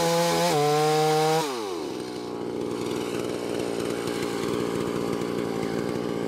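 1959 Stihl Contra two-stroke chainsaw running at high revs. About a second and a half in the throttle is let off, and the pitch drops steeply to a rough, pulsing idle.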